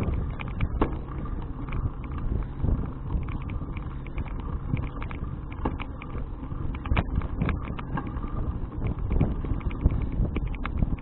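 Riding noise from a folding bicycle: a steady rumble with wind on the action camera's microphone, broken by frequent small clicks and rattles.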